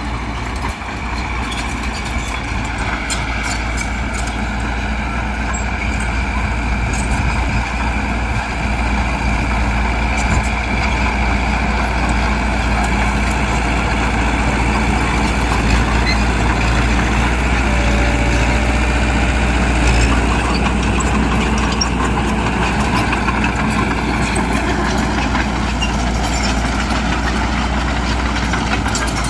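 Heavy diesel engine of earthmoving machinery running steadily: a deep drone with a thin steady whine above it, rising slightly in level through the middle.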